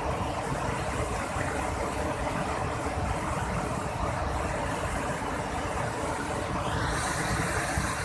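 Steady rush of a waterfall in rainy-season flow, a dense noise with a heavy low rumble; its hiss grows brighter about seven seconds in.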